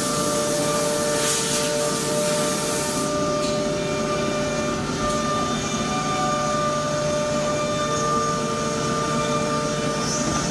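Woodworking panel machinery running steadily in a workshop: a mechanical hum with several held whining tones. A hiss runs through the first three seconds, then stops.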